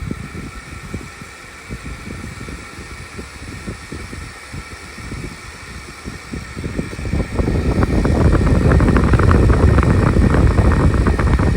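Outdoor unit of a 1993 Mitsubishi Kirigamine MUH-K223 air conditioner running uncovered in cooling mode just after start-up: a steady mechanical hum with high, even tones, over an irregular low rumble. About two-thirds of the way through, a much louder rough rushing noise sets in.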